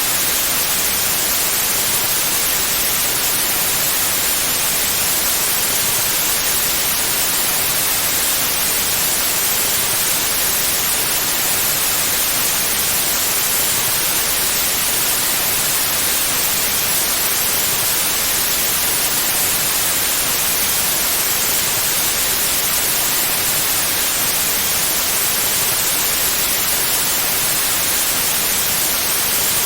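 Pure white noise: a steady, even hiss with no change, brightest in the treble.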